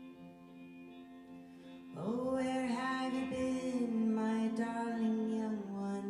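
Live band music: a quiet sustained chord, then about two seconds in a long held melodic note slides up into place and holds for about four seconds over it.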